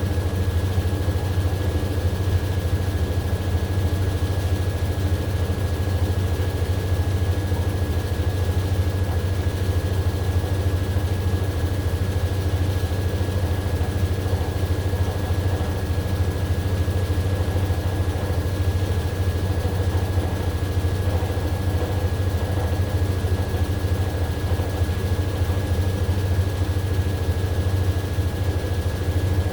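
AQUA AQW-DX12M front-loading drum washing machine running, a steady low hum with a thin constant high whine over it.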